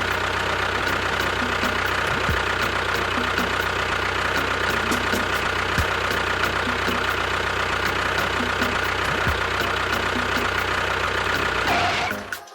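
Small motor running steadily with a light regular ticking, cutting off suddenly near the end.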